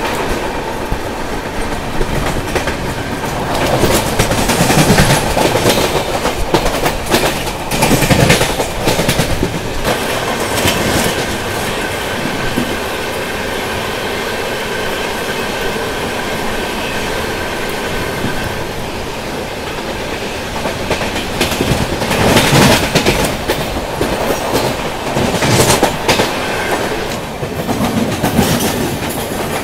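Passenger train running, heard from an open coach doorway: wheels clattering over rail joints, louder in two stretches, with rushing air. A thin steady whine lasts several seconds in the middle.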